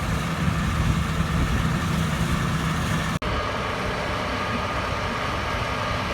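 Engine running steadily, with a momentary dropout about three seconds in, after which it carries on much the same.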